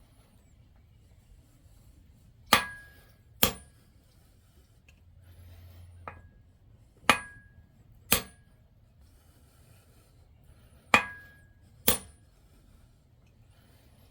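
Hammer blows on metal in three pairs of sharp strikes, each blow leaving a brief ringing tone, with one lighter tap between the first and second pairs.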